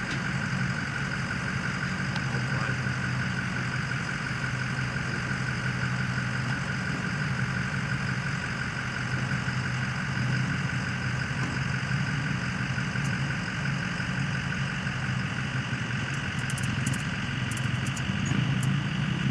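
An engine idling steadily: an even low hum with a fainter higher whine above it, holding the same pitch throughout.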